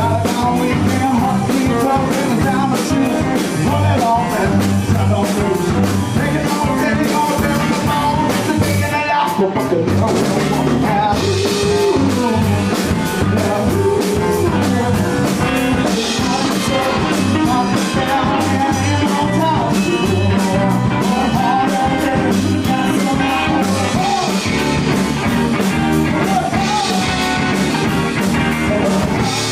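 Rock band playing a blues-rock number: electric guitar, bass and drum kit together at a steady, loud level with a regular beat.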